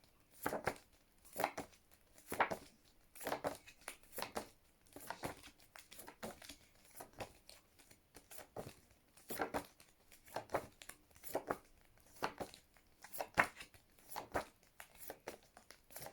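Paper flashcards flipped quickly one after another, a short rustle about once a second.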